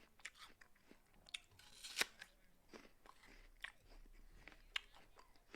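A person biting and chewing a crisp raw apple: a run of wet crunches, with one loud bite about two seconds in.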